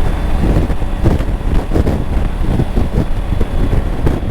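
Wind buffeting the microphone of a Triumph Tiger 900 rider at highway speed, a steady, loud rush with the motorcycle's engine and road noise underneath.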